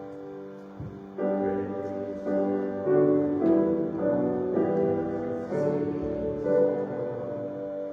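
Piano playing slow chords, the harmony changing every second or so.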